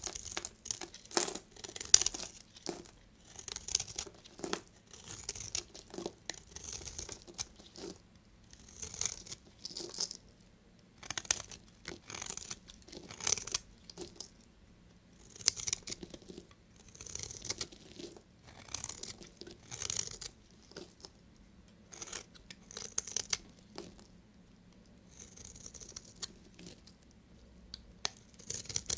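Knife cutting through bar soap: a series of short, crisp crackling strokes, about one a second.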